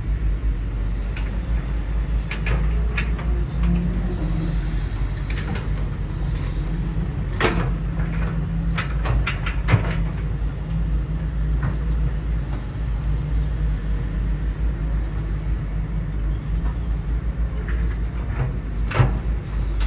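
A machine's motor running with a steady low hum, with scattered sharp clicks and clanks, several close together about halfway through and another near the end.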